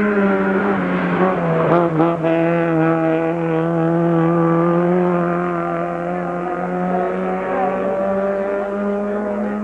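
Race car engine running hard at high revs on a hill climb, with a quick shift about two seconds in, then holding a steady high note that slowly climbs.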